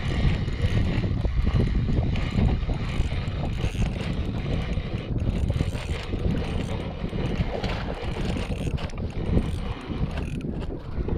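Fishing reel being cranked with quick ratcheting clicks as a hooked fish is brought in, over wind buffeting the microphone.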